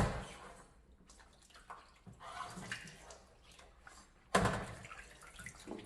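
Water splashing during kitchen cleaning: a sharp splash at the start and another a little over four seconds in, with softer wet sloshing and handling between.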